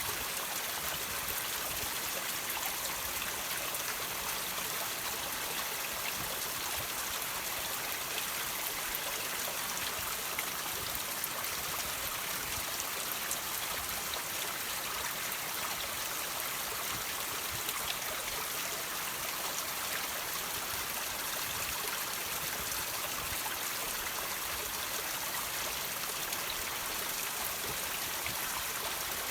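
Water trickling and dripping off rocks: a steady, hissing wash of running water with small drips scattered through it.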